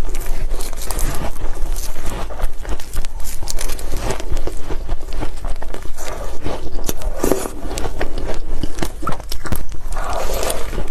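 Ice being bitten and chewed: a dense run of crisp crunches and crackles.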